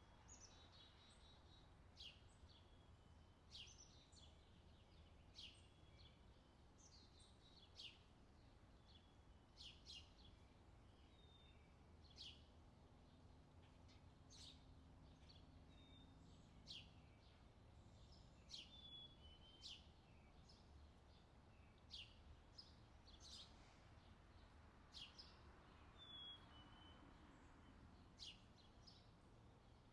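Faint outdoor summer ambience: a bird giving short, sharp chirps about once every second or so, over a low steady background hum.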